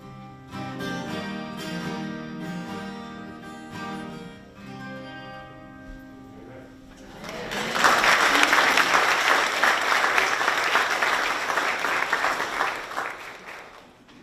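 Instrumental music with steady held notes, which PANN hears as guitar, winds down about six seconds in. Then a congregation applauds loudly for about six seconds, the applause fading away near the end.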